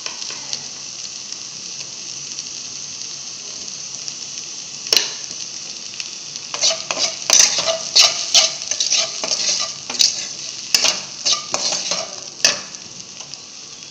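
Chopped okra frying in coconut oil in a pan, a steady sizzle. About a third of the way in there is a single sharp knock, and from about halfway a spatula stirs the okra, scraping and tapping against the pan over and over for about six seconds, mixing in the just-added salt and chilli powder.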